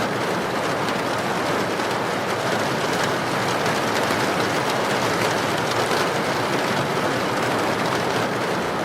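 Heavy rain pouring steadily, a dense even hiss with faint drop ticks.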